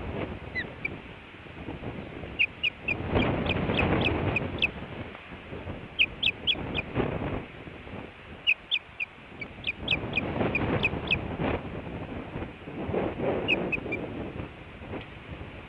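Osprey calling at the nest in four bouts of short, high chirps, several a second, with wind gusting on the microphone between and under them.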